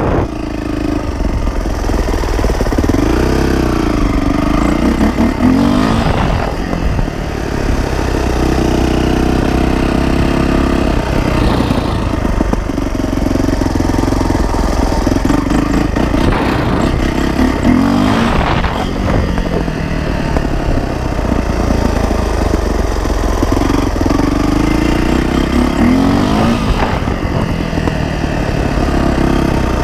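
Yamaha YZ450F dirt bike's single-cylinder four-stroke engine revving up and easing off about four times over steady running, the throttle bursts used to pop the front wheel up for wheelies.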